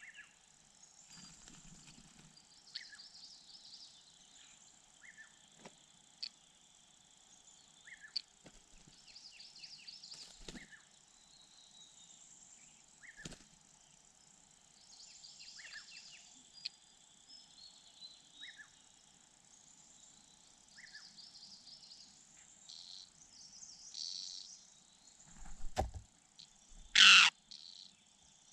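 Outdoor night-to-dawn ambience: insects such as crickets trilling steadily, with short bird chirps every second or two and a few faint clicks. A loud, brief noise breaks in near the end.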